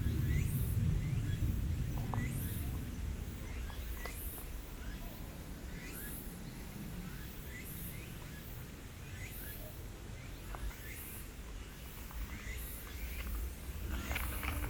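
Outdoor ambience: a steady low rumble with short, high calls repeating about once a second, and a few faint clicks.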